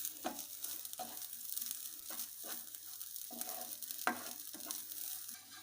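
Grated coconut being roasted in a kadai, with a light steady sizzle and a spatula scraping and stirring it in irregular strokes as it browns.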